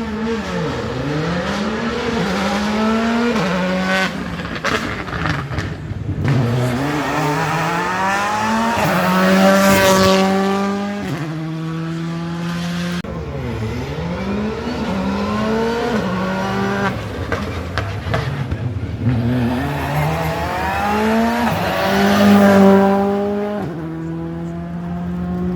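Rally car engines driven hard on a special stage: the pitch climbs through each gear and drops sharply at every shift, with two loud passes, about ten seconds in and near the end.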